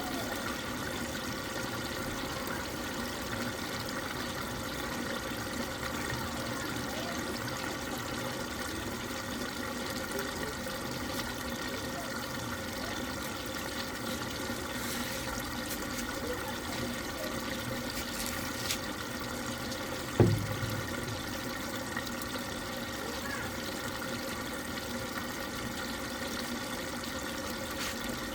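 Water running steadily into a fully automatic washing machine as it fills, over a steady hum. A single thump about twenty seconds in.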